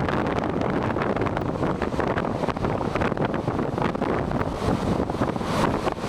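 Strong winter westerly (Ōnishi) gusting hard across the microphone in a steady, fluttering rumble, mixed with the wash of big waves breaking and surging over the coast.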